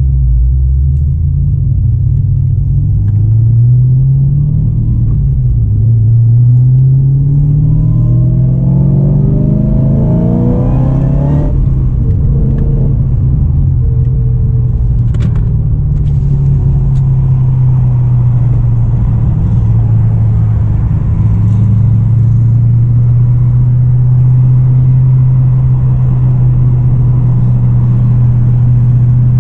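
Supercharged LSA V8 of a Holden VE Commodore pulling away under throttle. The revs climb steadily for several seconds, drop sharply at a gear change about eleven seconds in, then hold steady at an even, moderate speed.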